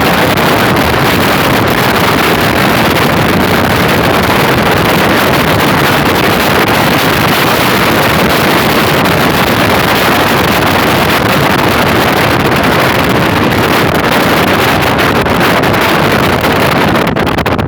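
Loud, steady wind rushing over the microphone, mixed with the road noise of a moving car.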